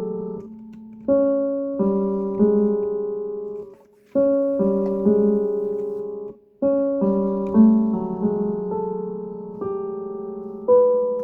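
Piano chords played slowly as a spooky, scary-sounding improvisation. Each chord is struck and left to ring and fade, and the playing breaks off briefly about four seconds and six and a half seconds in before the next phrase.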